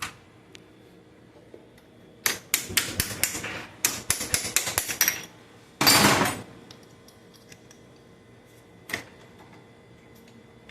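Metal parts of a Chevrolet Cobalt manual gearbox clicking and knocking as the third-and-fourth shift fork is worked free by hand: a run of quick taps for about three seconds, then a short louder rattle, and a single click near the end.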